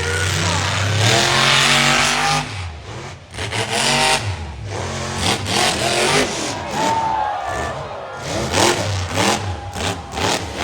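Monster truck engine revving hard in repeated throttle bursts, its pitch climbing and dropping, with several sharp bangs along the way.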